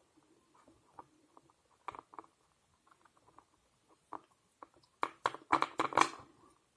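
Tarot cards being handled: scattered light clicks and slides, then a quick run of sharp card snaps about five seconds in, the loudest part.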